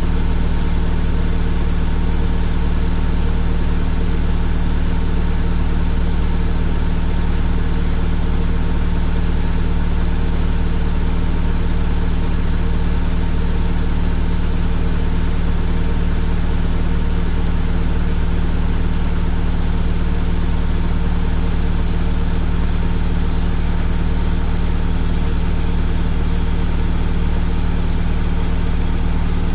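Washing machine running with a steady, unchanging hum: a deep low rumble with a faint high whine over it.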